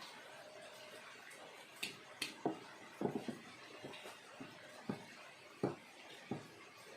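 A string of irregular light knocks and clicks, bamboo pieces and a hand tool being handled and tapped while carving a bamboo bird cage: two sharp clicks about two seconds in, then a quick cluster and single knocks every half second or so.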